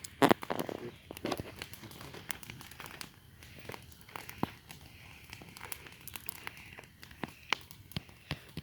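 Campfire burning wood, crackling with irregular sharp pops and snaps, with a louder crunching sound near the start.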